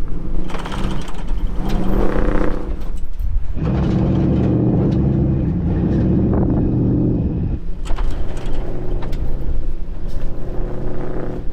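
A vehicle engine is revved twice under load, the second time held for about four seconds before easing off. Wind rumbles on the microphone throughout.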